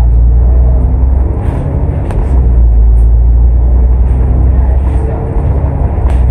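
Cummins ISL8.9 six-cylinder diesel engine of a double-decker bus under way, a loud low drone heard from inside the cabin. The drone eases off about a second in and again near the end, and the cabin rattles with short clicks.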